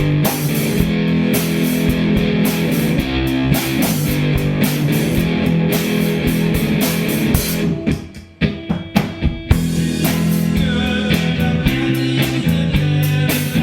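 Rock band playing: guitars over bass and drum kit. About eight seconds in the band drops out briefly, leaving a few sharp hits, then comes back in at full volume.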